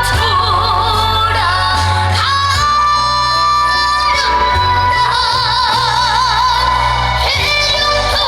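A singer performing live over band accompaniment, holding long notes with a wide, wavering vibrato.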